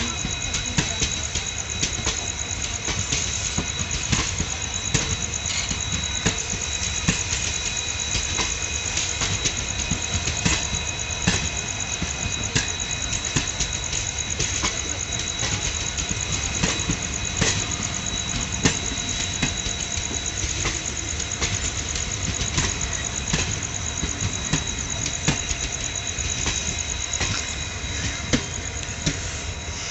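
Express passenger train running on the track, its wheels clattering over rail joints in a steady run of sharp knocks over a continuous rumble, easing slightly near the end.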